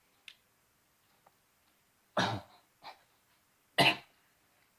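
A person coughing twice, two short harsh coughs about a second and a half apart, with a few faint mouth clicks between.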